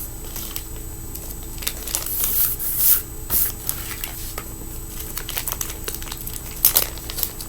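Plastic packaging crinkling and tearing as it is handled and opened, in irregular rustling bursts, loudest about two to three seconds in and again near the end.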